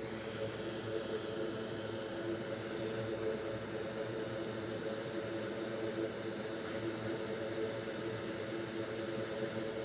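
Steady whir of a small electric fan running, with a constant low hum under an even hiss.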